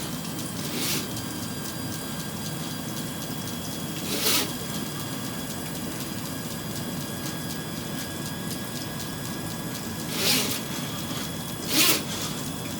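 Electric flexible-shaft drain cleaner running steadily, spinning its cable inside a blocked drain pipe, with four short hissing bursts over it.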